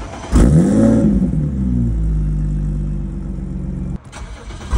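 BMW N52 inline-six with a GTS startup tune, cold-started through its exhaust: it catches about a third of a second in, flares up in a loud rev and falls back to a steady idle. Near the end a second start-up flare begins.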